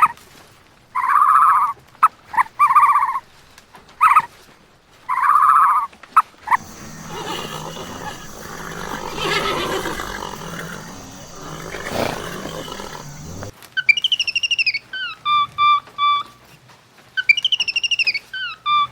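A sequence of different animal calls: several short, loud calls in the first few seconds, then a long rough, noisy call lasting about seven seconds, then bird-like whistled calls with falling glides and quick runs of repeated chirps near the end.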